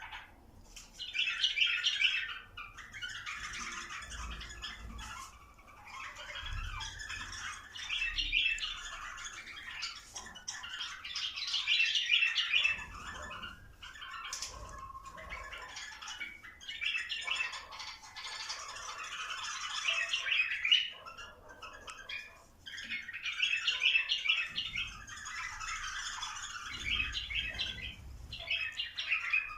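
Bulbuls singing: repeated bursts of busy, chattering song a few seconds long, with short pauses between them.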